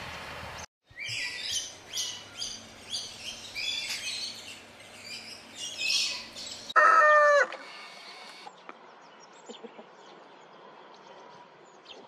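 A great tit calling in a run of sharp, high chirps, about two a second, for several seconds. Then a rooster gives a short, loud crow, followed by faint scattered ticks.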